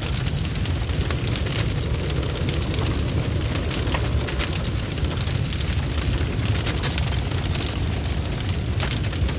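Wood fire burning with a steady low rumble of flames and frequent sharp crackles and pops from the burning wood.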